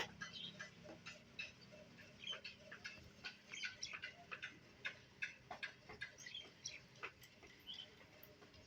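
Faint, irregular light clicks and ticks, a few a second, over a quiet background.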